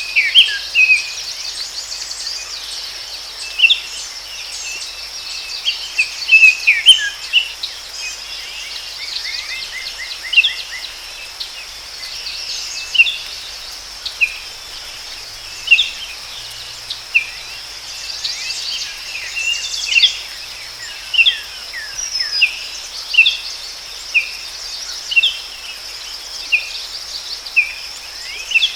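Forest ambience: birds chirping and trilling, with a steady high-pitched insect drone underneath. In the second half one bird repeats a short call about once a second.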